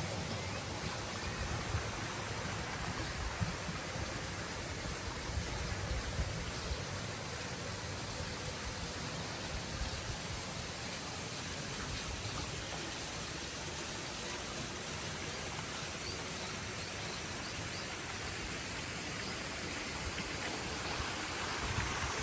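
Steady outdoor rushing noise, with an uneven low rumble underneath.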